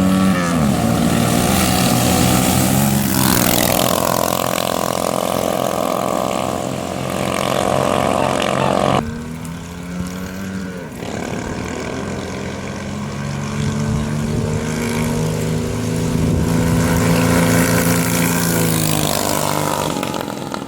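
Homemade two-engine go-kart running, its Chinese 90cc and Predator 212cc small single-cylinder engines both driven from one gas pedal. The engine note rises and falls, drops off suddenly about nine seconds in, then picks up and runs steadily again before falling away near the end.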